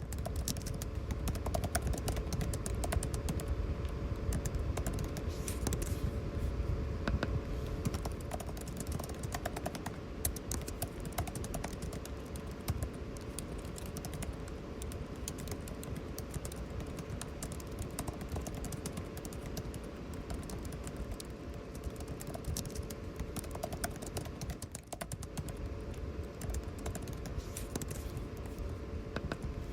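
Computer keyboard typing: rapid, irregular key clicks over a steady air-conditioning hum.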